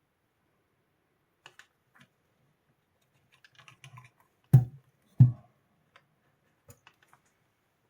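Scattered light clicks and taps of objects being handled, with two loud dull knocks about two-thirds of a second apart a little past the middle.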